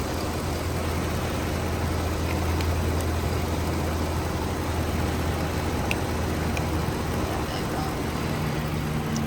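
Chrysler 300's engine idling steadily, a constant low hum with a few faint ticks.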